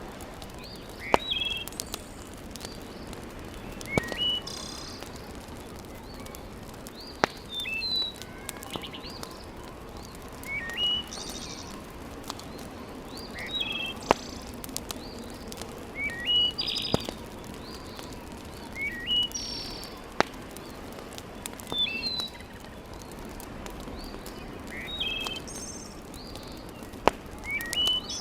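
Wood fire crackling in a fireplace, with sharp pops every few seconds over a steady hiss. A bird repeats a short rising chirping call about every three seconds.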